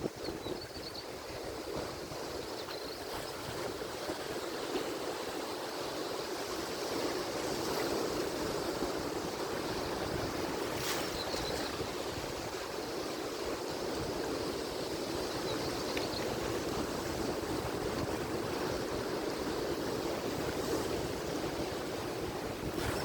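Atlantic Ocean surf: a steady rush of waves breaking and washing on the shore, swelling slightly a few seconds in. A few faint, short high chirps sound over it.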